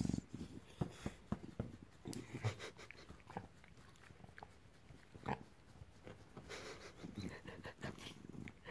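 English bulldog making short, irregular breathy noises and grunts, with a louder one right at the start.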